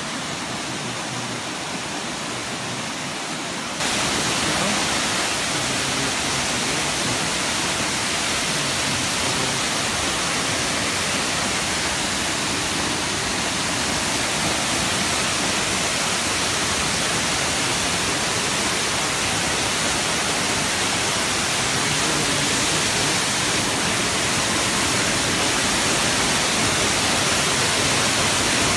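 Waterfall: a steady rush of falling water that steps up in loudness about four seconds in.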